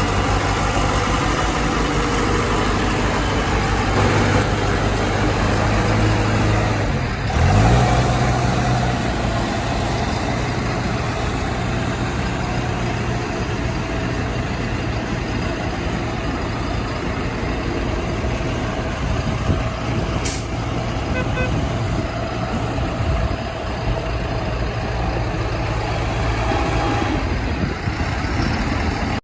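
Self-loading concrete mixer truck's diesel engine running steadily as the truck drives. About seven seconds in, the engine note dips and then picks up again.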